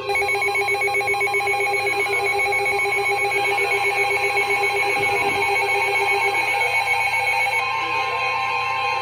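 Electronic emergency-alert tones for a severe thunderstorm warning: a loud chord of several steady pitches pulsing rapidly, about ten pulses a second. Near the end the upper pulsing stops and a steady higher tone comes in.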